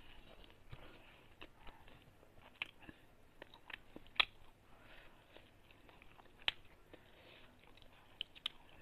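Close-miked eating: quiet chewing with scattered sharp, wet mouth clicks and smacks, the loudest about four seconds in and again past six seconds.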